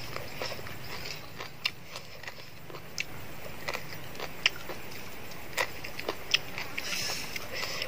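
Close-up chewing of crunchy shredded green papaya salad (som tam), with sharp crunches and mouth clicks at irregular intervals.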